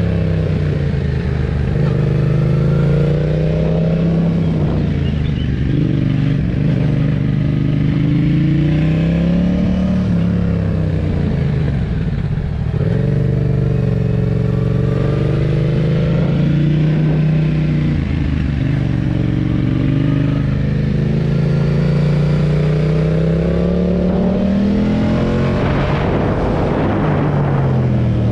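Yamaha MT-07 parallel-twin engine through a Roadsitalia Double Fire titanium aftermarket exhaust, its revs rising and falling again and again. A brief rush of hiss is heard near the end.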